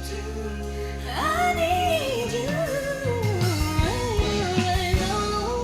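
Music: a woman singing a slow, gospel-tinged ballad, a single lead line with wavering runs over held instrumental chords. The voice comes in about a second in.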